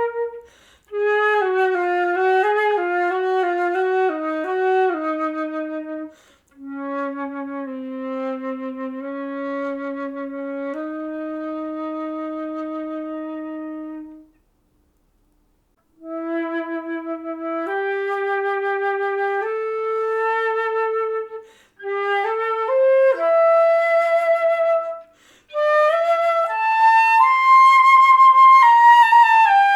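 Solo flute improvising in slow phrases of moving and long held notes, with short breath gaps and a silence of about two seconds midway. Near the end it climbs to a loud, high held note.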